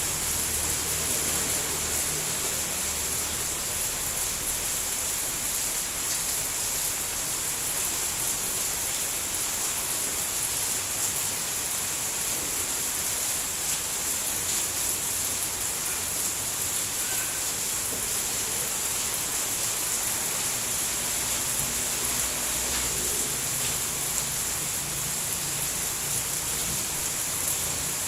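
Steady rain falling without a break, an even hiss that stays at the same level throughout.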